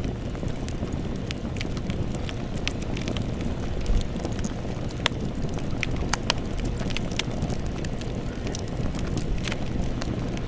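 Wood campfire burning: a steady low rush of flames with frequent irregular crackles and pops from the burning wood, and one louder pop about four seconds in.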